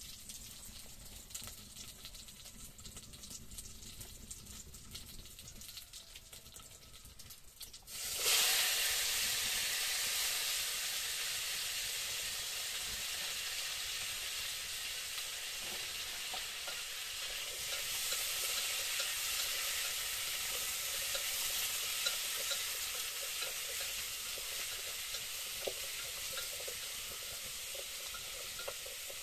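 Food sizzling in hot oil in a pot over a wood fire. After a quieter start, a loud, even sizzle begins suddenly about eight seconds in, as food goes into the hot pot, and carries on with a slight easing.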